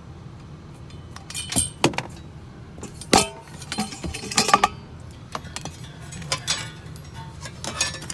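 Wire clippers snipping through an appliance power cord, amid a run of sharp metallic clicks and clinks from the clippers and the scrap being handled. A steady low engine hum runs underneath.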